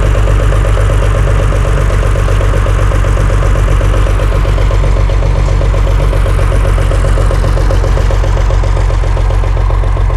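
Tractor engine idling close by: a loud, steady engine note with fast, even firing pulses that does not change.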